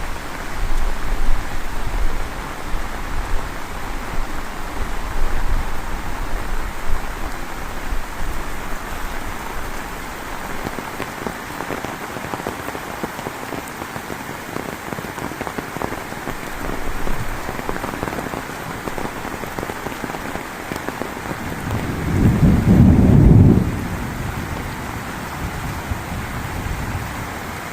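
Heavy rain falling steadily, with a low rumble of thunder that swells for about two seconds near the end.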